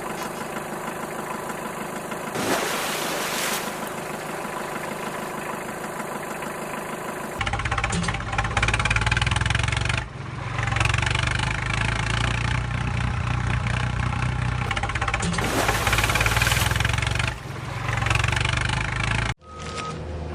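Heavy vehicle engine sounds: an engine running for about seven seconds, then a louder, deeper engine running and revving, which cuts off abruptly about a second before the end.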